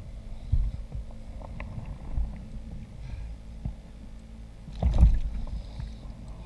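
Knocking and handling sounds on a fishing kayak over a steady low rumble of water and hull noise, with a louder thump about five seconds in.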